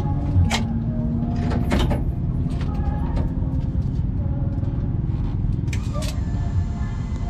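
Drag race car's engine idling with a choppy, uneven rumble, heard from inside the stripped cockpit. A few short sharp clicks sound over it.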